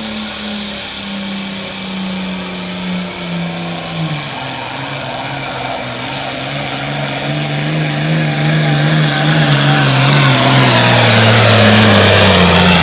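Pro stock pulling tractor's turbocharged diesel engine running flat out under the sled's load. Its pitch sinks steadily as the engine is pulled down, while it grows louder toward the end, with a high turbo whine over the top.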